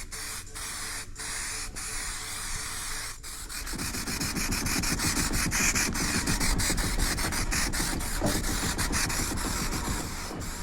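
Aerosol spray paint can hissing, broken into many short bursts, with a heavier, fuller spray sound about four seconds in.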